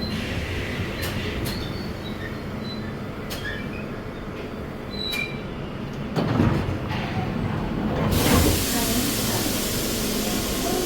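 London Underground Bakerloo line train (1972 Stock) running through the tunnel with a low rumble, sharp wheel clicks and a few short, high squeals. About eight seconds in, a steady hiss sets in abruptly.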